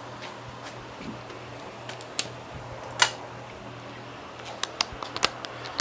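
Metal hand tools clinking as wrenches are handled: a few sharp clicks, the loudest about three seconds in, then a quick run of clicks near the end, over a steady low hum.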